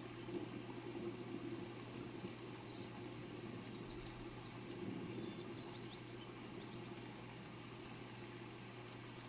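Steady rain hiss with birds chirping faintly a few times around the middle, over a constant high insect-like drone.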